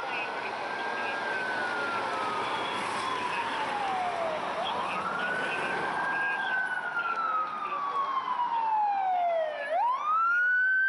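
Fire apparatus siren wailing, its pitch rising quickly and then falling slowly, about twice, over the rumble of road traffic.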